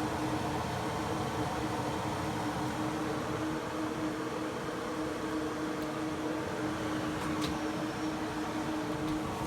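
Steady mechanical hum with a constant low tone, with a faint click about seven and a half seconds in.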